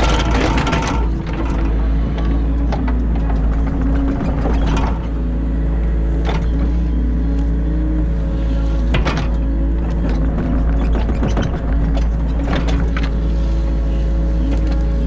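Excavator's diesel engine running steadily under load, heard from inside the cab, with several sharp knocks and scrapes from the working machine as it digs silt out of the ditch.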